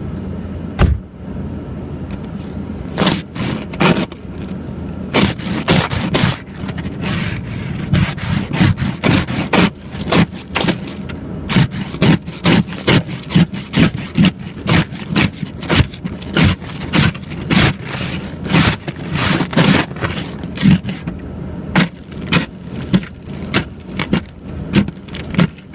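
Ice scraper scraping frost and ice off a truck windshield in repeated short strokes, about one to two a second, heard from inside the cab. The truck's engine idles steadily underneath.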